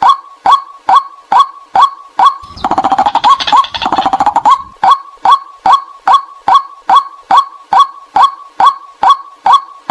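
White-breasted waterhen calls, as played to lure the birds: short 'kwak' notes repeated about two and a half times a second. From about two and a half seconds in, they give way for two seconds to a dense run of rapid, chattering calls, then the steady notes resume.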